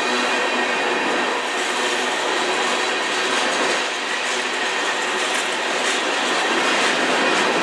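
Covered hopper cars of a freight train rolling past close by: a steady noise of steel wheels running on the rails, with faint steady high tones above it.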